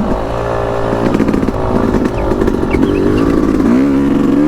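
Yamaha YZ250X's 250 cc single-cylinder two-stroke engine running at low revs on a trail ride, its pitch wavering with the throttle and rising near the end.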